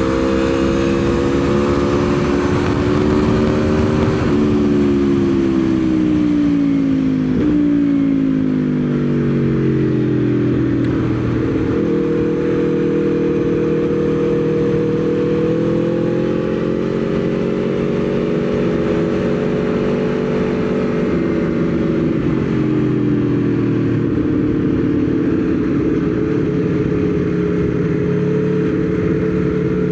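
Aprilia Tuono V4's V4 engine working hard on track. It holds high revs, then falls in pitch for several seconds, with a sudden break partway down like a gear change. It then climbs and holds, drops once more, and rises again near the end.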